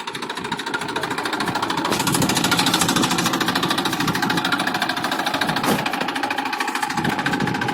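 TAFE 1035 tractor's diesel engine running with a fast, even knock, growing louder over the first two seconds and then holding steady.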